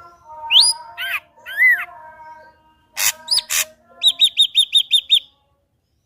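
Ashy drongo singing a varied song. It opens with rising whistled notes and arched slurs, gives two harsh rasping notes, then a quick run of seven identical down-slurred notes, about six a second, that stops abruptly.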